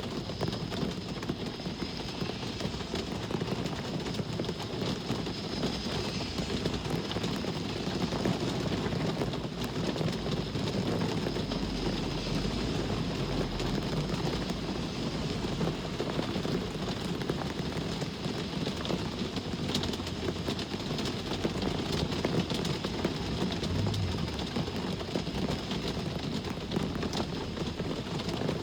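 Steady rain falling over the low rumble of road traffic. A deeper rumble swells about eleven seconds in and fades again a few seconds later, as of a heavier vehicle going by.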